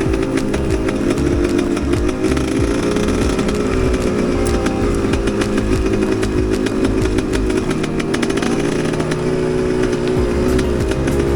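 Enduro motorcycle engine running at a fairly steady speed, with only small changes in pitch, and many sharp clicks and knocks throughout.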